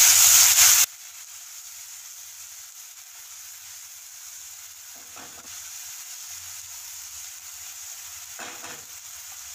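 Ground spice paste sizzling in hot oil in a kadai, loud for the first second, then cutting down abruptly to a much quieter steady frying sizzle as it is stirred with a wooden spatula. Two faint short noises come about five and eight and a half seconds in.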